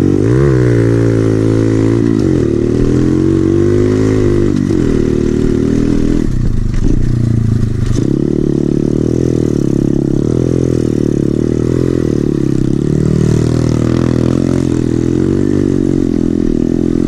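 SSR 110cc pit bike's single-cylinder four-stroke engine with an FMF exhaust, ridden hard with the throttle opened and closed again and again. The engine pitch climbs and drops every second or two, with a sharp climb at the very start.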